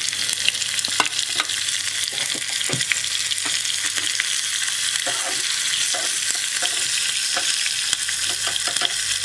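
Chopped garlic, ginger and green chillies sizzling and crackling in hot ghee with cumin in a small wok: a tadka (tempering) being fried. A spoon stirs and scrapes the pan near the end.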